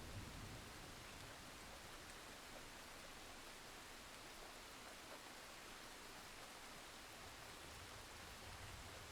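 Faint, steady rain falling: an even, soft hiss.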